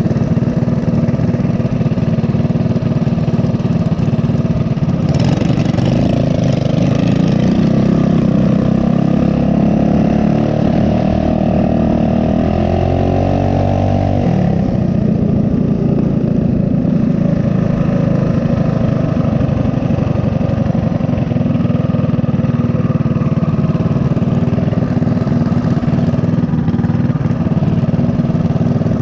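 Small single-cylinder four-stroke mini bike engine running steadily. The engine speed rises and falls between about five and fifteen seconds in.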